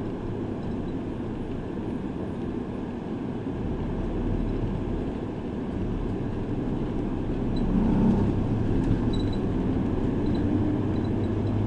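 Route bus heard from inside the cabin while it drives: a steady engine hum and road rumble, growing a little louder about eight seconds in.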